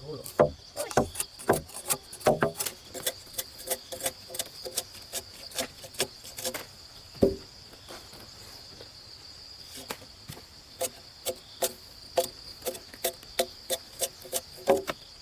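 Rapid, repeated knocks of a hand tool striking wood, about three blows a second, pausing for a few seconds midway before resuming. A steady high buzz of insects runs underneath.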